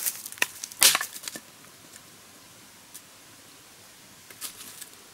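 Sharp cracking and snapping of dry wood, a quick cluster in the first second and a half with the loudest crack about a second in, then a few fainter snaps around four and a half seconds in.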